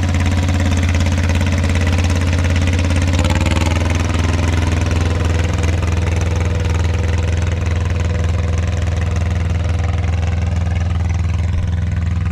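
Mitsubishi MT372 two-cylinder diesel tractor engine running steadily under load while pulling a three-point disc harrow through hard ground. Its speed picks up slightly about three seconds in.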